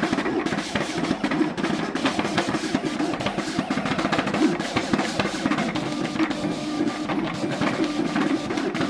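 Creation CT630 vinyl cutter running a test cut, its stepper motors whining and chattering rapidly, the pitch shifting with each move as the carriage and the newly fitted drive roller motor move the blade and vinyl.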